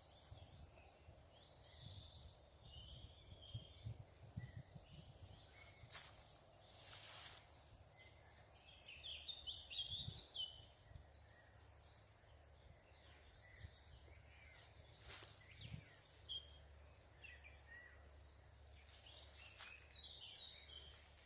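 Faint birdsong: scattered high chirps and short trills, with a busier cluster of calls about ten seconds in and again near the end, over a low rumble.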